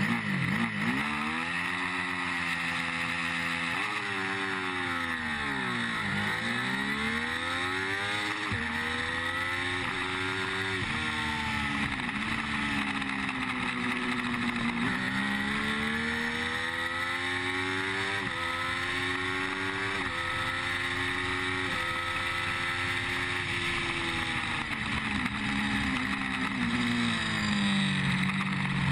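Triumph Street Triple's 675 cc inline-three engine under hard acceleration on a racing motorcycle, heard from an onboard camera: the engine note climbs and then drops sharply at each upshift, about half a dozen times, with a longer fall in pitch around six seconds in and again near the end. Steady wind rush over the microphone.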